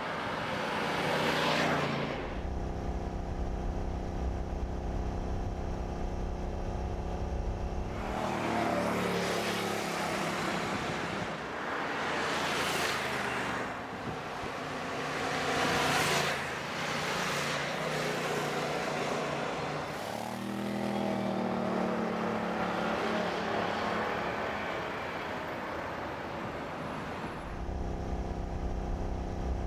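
Car engines running, with several cars driving past, their noise swelling and fading each time, and stretches of a steady low engine rumble between them. The sound changes abruptly a few times, as between shots.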